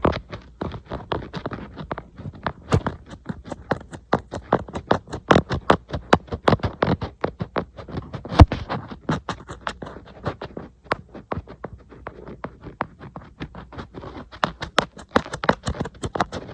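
Fingernails tapping rapidly on an iPad's glass screen and casing, a quick uneven run of sharp clicks with the odd louder knock, loudest about eight and a half seconds in.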